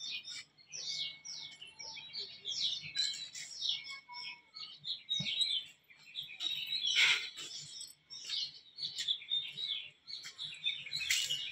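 Several small birds chirping, a busy run of short, overlapping chirps.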